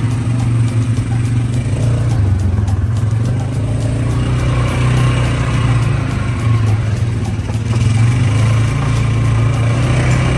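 Motor vehicle engine running steadily at an even pace, with no revving or gear changes.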